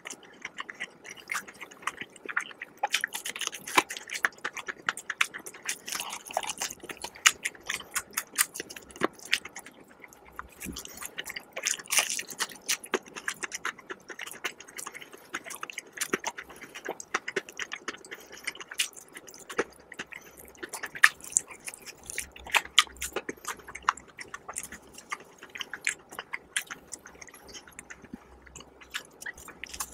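Close-miked chewing and biting of crispy fried chicken, an irregular run of small crackles and clicks.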